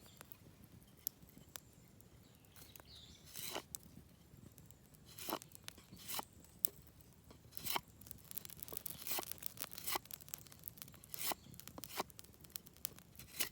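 Knife blade carving a piece of fallen cherry wood: short, irregular scraping and shaving strokes, few at first and coming more often from about halfway through.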